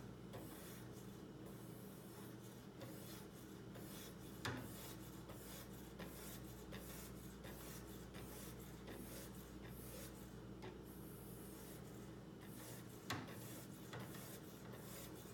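Faint, repeated rubbing strokes of a strop drawn downward along a kitchen knife's edge on a guided sharpening system, knocking off the last burrs, with a couple of light clicks from the rig.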